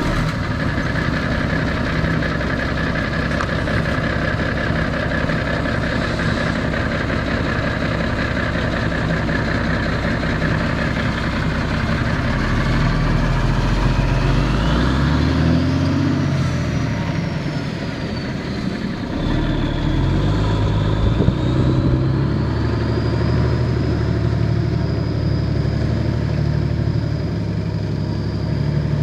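Ford boom truck's engine running just after being started, its speed changing a few times in the middle, with a high whine that rises and falls along with it.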